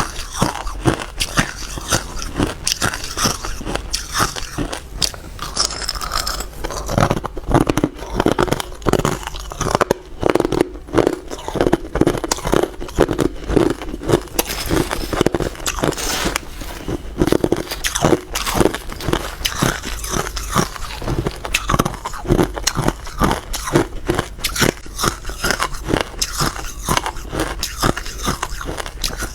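Hard ice being bitten and chewed close to the microphone: rapid, continuous crunching and cracking.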